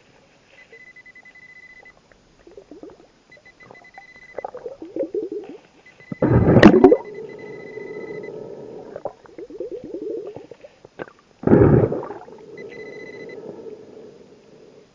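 Scuba diver breathing underwater through a regulator, with two loud bursts of exhaled bubbles about six and eleven and a half seconds in. A faint high steady beep comes and goes behind it.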